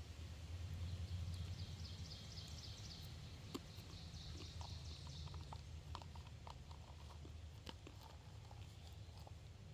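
A bird's rapid trill of repeated high notes lasting a few seconds, over a steady low outdoor rumble, with a few scattered light clicks.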